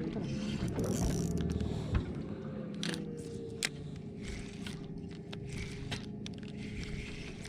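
A boat motor running steadily, its hum rising slightly and then settling. A few sharp clicks or knocks sound over it about two, three and three and a half seconds in.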